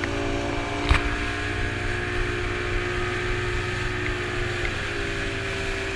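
A boat's engine runs steadily with an even hum, and there is a single sharp knock about a second in.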